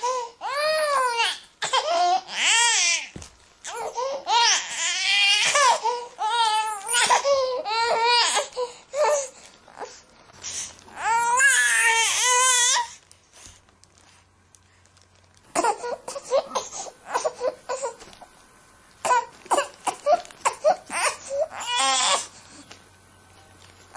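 Baby crying in long, wavering wails, one after another, then falling quiet for a couple of seconds about halfway through before starting again in shorter, choppier cries.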